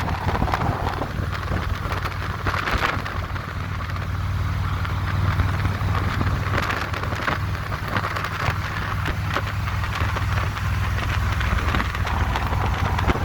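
Harley-Davidson motorcycle engine running steadily on the move, a continuous low rumble, with wind rushing over the GoPro microphone.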